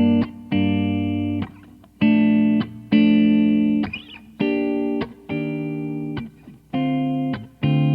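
Gibson ES-335 '64 Reissue semi-hollow electric guitar playing a rhythm of chords, each struck, held for about a second and then cut short, roughly once a second.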